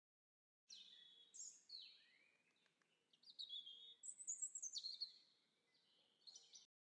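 Birds chirping and singing: a run of short, high sliding whistled notes that starts under a second in and cuts off abruptly near the end.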